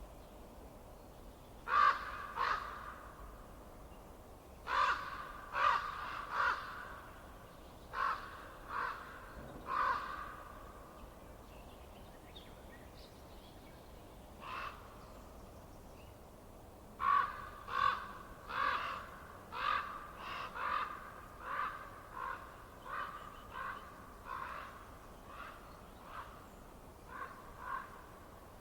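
Harsh bird calls, short and repeated: several in the first ten seconds, one alone in the middle, then a steadier run of a dozen or more in the second half. Faint steady background noise lies beneath them.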